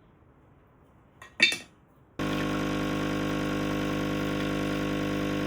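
A brief sharp sound about a second and a half in, then a loud, steady drone of many tones that cuts in abruptly about two seconds in and holds at an even level.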